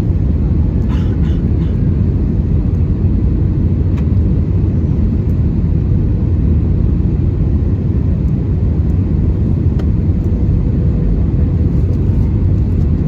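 Steady cabin rumble inside an Airbus A319-111 with two CFM56-5B5/3 engines: a deep, even engine and airflow noise with a faint steady hum on top.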